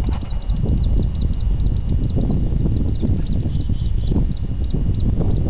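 A small bird chirping over and over, several short high chirps a second, over a steady low rumble.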